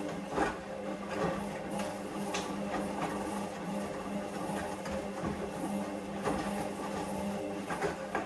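Hoover Vision Dynamic washing machine running a wash: a steady motor hum as the drum turns, with irregular light knocks from the load tumbling.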